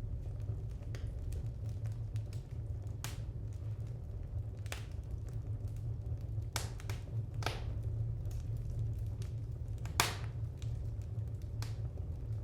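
Fire crackling in a fireplace: a steady low rumble with sharp pops scattered through it, about half a dozen clear ones, the loudest about ten seconds in.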